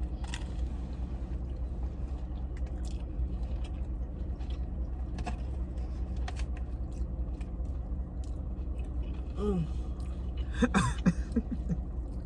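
A person chewing food, with scattered short crunchy clicks, over a steady low hum; a brief voice sound comes in near the end.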